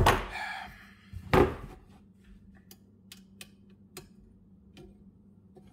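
Metal clanks and light taps from a riding mower's deck height lift lever parts being handled and slid out: a loud clank at the start and another about a second and a half in, then scattered faint clicks.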